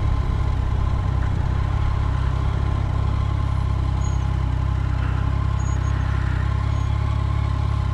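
Motorcycle engine running steadily with a low rumble, heard from the rider's own bike.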